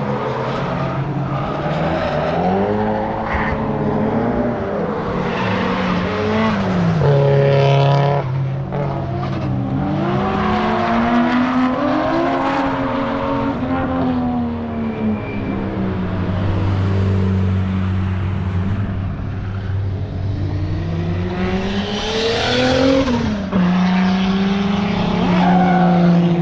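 Drift cars on a track: engines revving up and down as they slide through the corners, with some tyre squeal, while another engine holds a steady note underneath.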